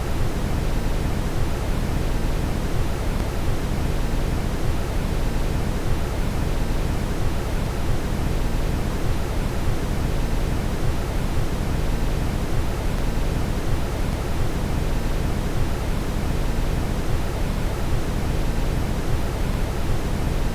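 Steady synthetic brown noise: an even, deep hiss that is strongest in the low end and dull at the top, with no change.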